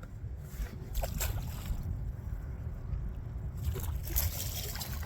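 Wind buffeting the microphone with water sloshing against a small boat's hull, and a few short splashy knocks about a second in and again near the end.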